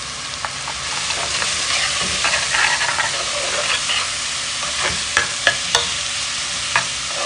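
Sliced onions and garlic sizzling in hot oil in a pot while being stirred with a metal spoon. The spoon clinks against the pot three times in quick succession a little after the middle and once more near the end.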